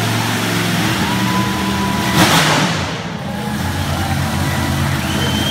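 Monster truck engine running and revving, with a short, loud burst of noise a little over two seconds in.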